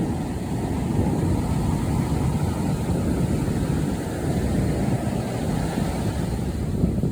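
Wind buffeting the microphone at sea, a steady low rumble with the wash of the ocean beneath it.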